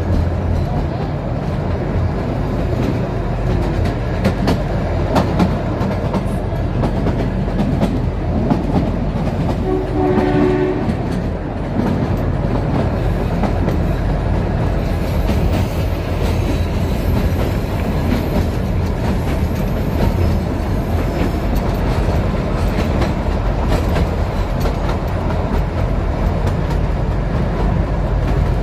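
Narrow-gauge Kalka–Shimla toy train running, heard from inside a carriage: a steady rumble with wheels clicking over the rail joints. A horn sounds once, briefly, about ten seconds in.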